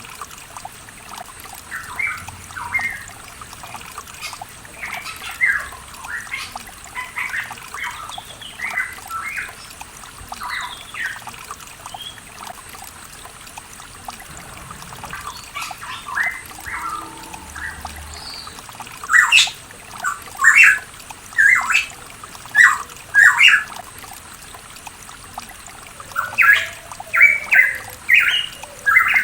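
Pitohui calling: short, sharp whistled notes in quick series, growing louder in the second half. Trickling water runs underneath throughout.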